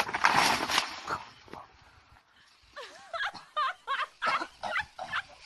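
A loud rushing burst lasting about a second, then a run of short, high animal yelps that bend up and down in pitch.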